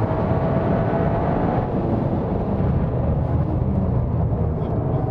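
GRMN Yaris's 1.6-litre turbocharged three-cylinder engine running steadily under throttle on track, mixed with road and tyre noise, heard from inside the cabin.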